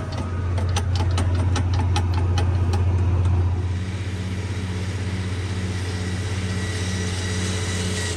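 Tractor engine running steadily, with a run of sharp clicks over the first three seconds or so; after about three and a half seconds a high steady whine and a low, regular pulse of a couple of beats a second join the drone.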